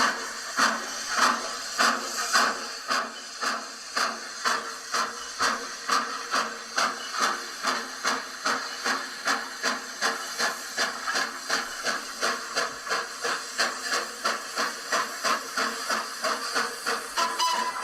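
Sound-fitted model steam locomotive chuffing, the beats quickening from under two a second to about three a second as it pulls away and gathers speed.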